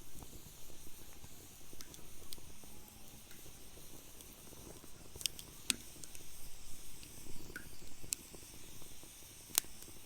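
Wood fire burning in a fire pit, crackling with a low rumble underneath and scattered sharp pops, a few louder ones in the second half and the loudest near the end.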